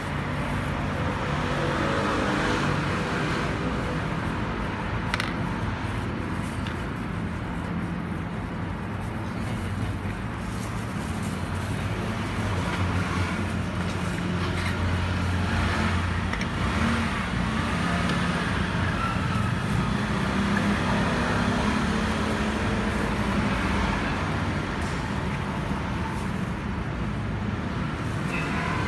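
A motor vehicle engine running steadily, a low hum that shifts in pitch a little now and then.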